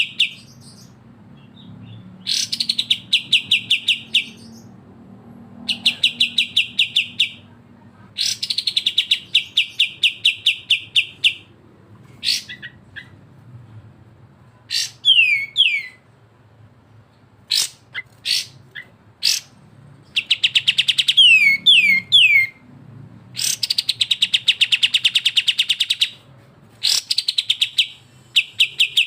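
Songbird song of kapas tembak and cucak jenggot (grey-cheeked bulbul): bursts of fast, rapidly repeated trilled notes, each lasting one to three seconds and coming every few seconds, with a few short downward-sliding whistles in between.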